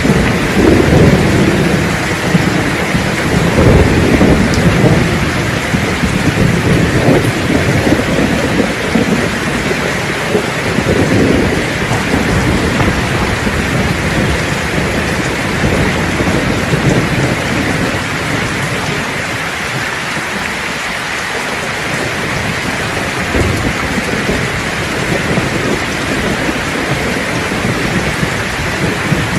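Thunderstorm: steady heavy rain with low rolling thunder, strongest in the first half and dying away about two thirds of the way through.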